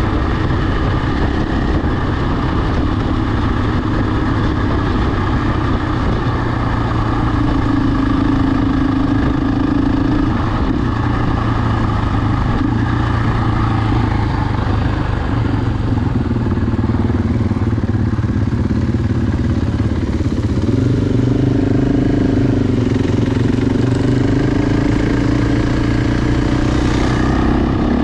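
Motor vehicle engine running steadily, its pitch drifting slowly up and down as it is driven at a fairly even speed.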